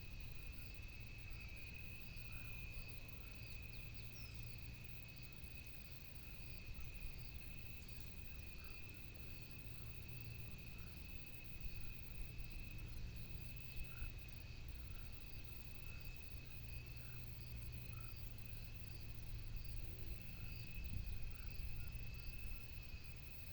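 Insects, crickets by the sound of the tags, trilling in a steady high chorus, with a short call repeating about once a second, over a low rumble.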